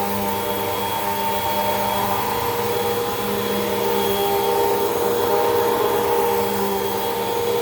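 Hoover WindTunnel 2 Rewind upright vacuum cleaner running steadily on carpet: a constant motor hum whose pitch shifts slightly now and then.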